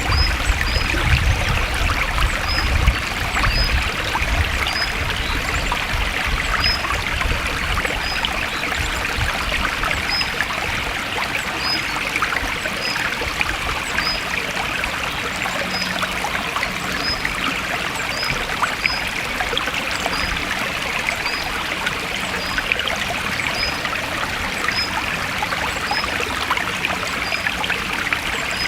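Forest stream flowing and trickling steadily over rocks. A faint, short, high chirp repeats roughly once a second above the water.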